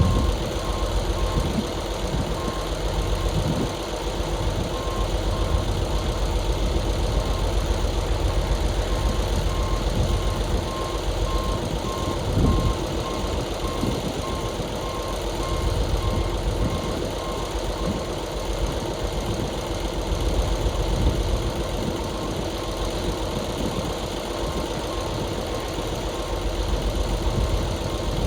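Dump truck's diesel engine running steadily while its reversing alarm beeps at an even pace, the beeping stopping partway through. A brief louder surge from the engine comes about halfway.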